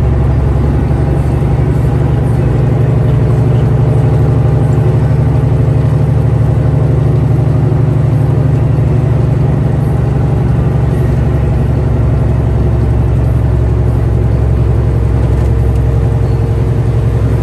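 Steady low drone of a motor vehicle's engine and road noise, heard from inside the cab while cruising at an even speed.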